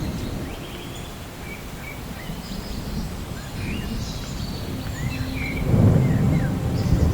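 Rolling thunder rumbling low under steady rain, swelling to a louder peal about six seconds in, with birds chirping.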